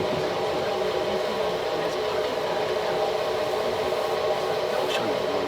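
A steady machine drone: a motor running at a constant pitch, with an even hum. A faint click about five seconds in.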